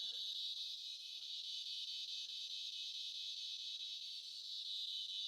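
A chorus of cicadas calling: a high, steady buzz with no break.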